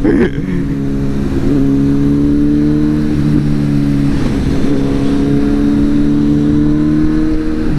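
Kawasaki superbike engine running at a steady, unchanging pitch, as at a constant cruising speed.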